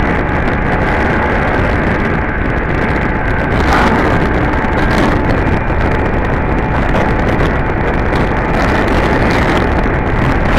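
Yamaha WR155 motorcycle's single-cylinder four-stroke engine held at full throttle near its top speed, its pitch steady, under a heavy rush of wind on the microphone.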